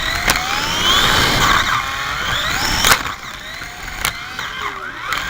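Slot cars' small electric motors whining, several at once, each rising in pitch as a car accelerates, with three sharp clacks; quieter from about halfway through.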